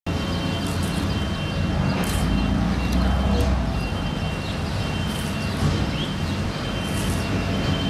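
Heavy engine running steadily, with a thin high tone that keeps breaking off and coming back and short hissing bursts every second or two.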